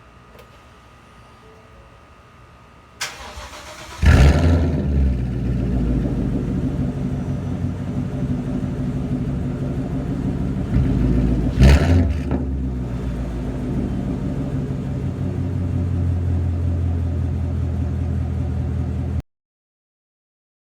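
2015 Ford Mustang GT's 5.0-litre V8, with a Roush axle-back exhaust and MRT H-pipe, cold-starting: about a second of starter cranking, then it fires with a loud flare and settles into a steady fast cold idle. There is one brief louder burst partway through, and the sound cuts off abruptly near the end.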